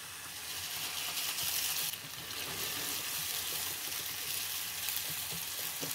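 Chopped onion and ginger-garlic paste sizzling steadily in hot ghee in a wok, stirred with a spatula.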